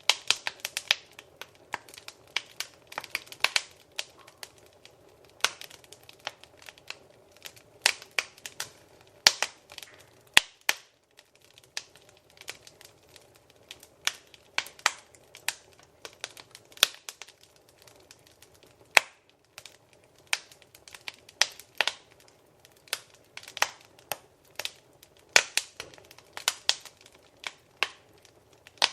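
Fireplace fire crackling: irregular sharp pops and snaps, a few each second, over a faint low steady rumble.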